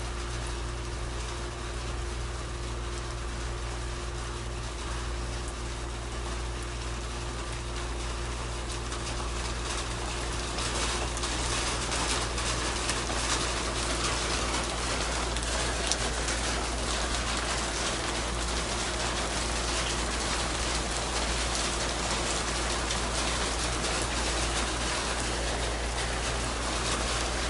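Rain pattering on a metal surface as a dense, steady hiss of drops, growing louder about ten seconds in, over a steady low rumble.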